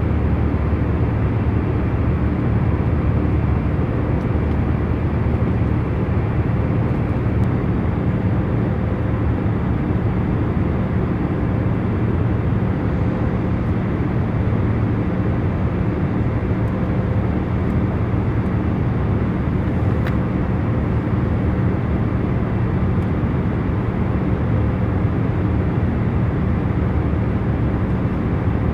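Steady hum of a jet airliner cabin in cruise flight: an even rumble with most of its weight in the lows and a few faint steady tones running through it.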